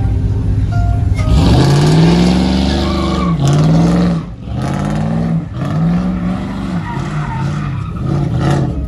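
Car engine revved hard over and over, its pitch climbing and dropping in a run of arcs that come quicker toward the end, with tyres squealing during the first long rev, typical of a burnout or donuts.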